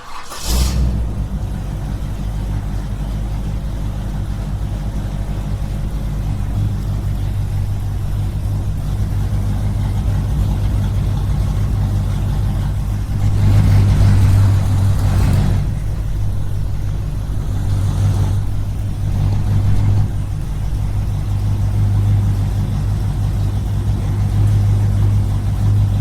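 Small engine running steadily at a constant speed with a low, even hum, and a louder rushing noise for a couple of seconds around the middle.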